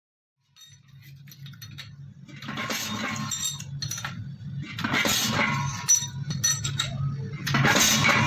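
Small metal parts clinking against one another over a steady low machine hum. Three louder swells of clatter come at intervals.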